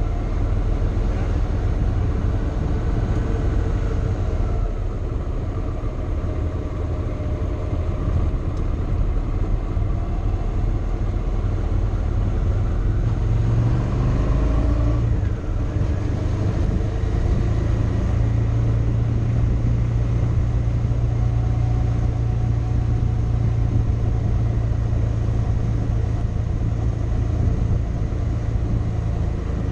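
Motorcycle engine running steadily while riding, with wind and road noise; the engine note briefly shifts in pitch about halfway through.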